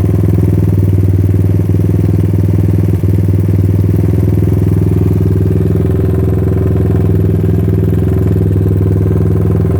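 Suzuki LT230S quad's single-cylinder four-stroke engine idling steadily after a cold start in freezing weather.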